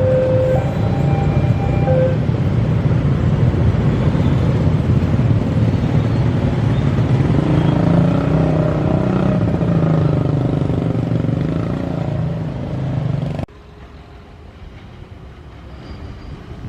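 Diesel-hauled train passing close by: a loud steady engine rumble and running noise, with a two-note horn-like tone in the first two seconds. The sound cuts off suddenly about three seconds before the end, leaving a much quieter background.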